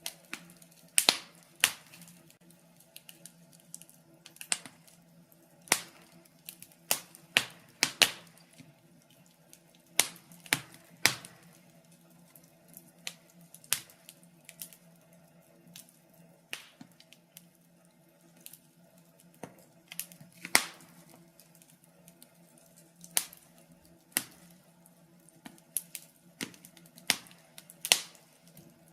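Logs burning in a fireplace, crackling with irregular sharp pops and snaps: sometimes several close together, sometimes a second or two apart. A faint steady low hum sits underneath.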